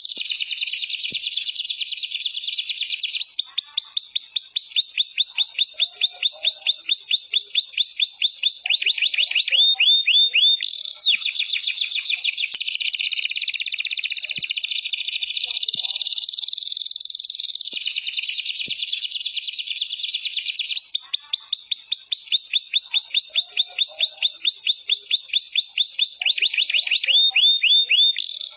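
Canary singing a continuous, high-pitched song of very fast trills and rolls, a master-song recording used to tutor young canaries. The same run of phrases comes round again about every 18 seconds, each time with a lower, slower ringing roll before the fast trills resume.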